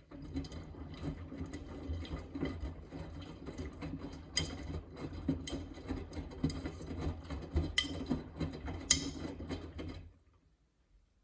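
Miele W3985 washing machine's drum turning the load during the final rinse: a steady low motor hum with water and washing tumbling, and a few sharp clicks against the drum. It stops suddenly near the end as the drum pauses.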